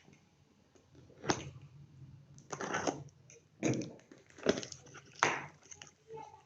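A parcel being torn and pulled open by hand: a series of short tearing and crinkling rustles of packaging, about five of them, the longest one near the middle.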